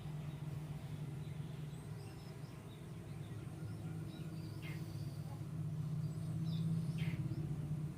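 Outdoor ambience: a steady low hum with small birds chirping faintly now and then.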